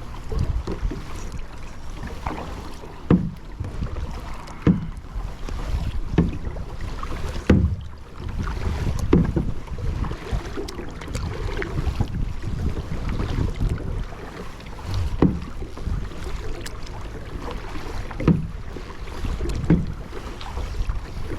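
Kayak paddle dipping into the water with a splash about every second and a half, in a steady stroke rhythm, over a constant low rumble of wind on the microphone and water against the hull.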